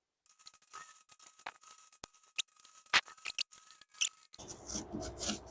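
Cured expanding spray-foam insulation being trimmed and broken out of a plastic cooler lid: a run of crisp snaps, cracks and scrapes, a few of them sharp and loud.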